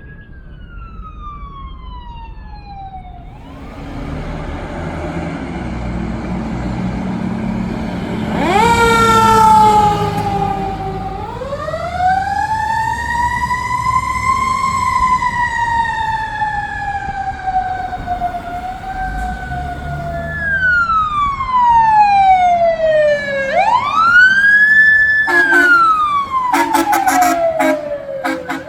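Emergency vehicle siren wailing, its pitch sliding slowly up and down in long sweeps, over the low rumble of a heavy vehicle's engine. About three-quarters of the way in comes a quick series of short horn blasts.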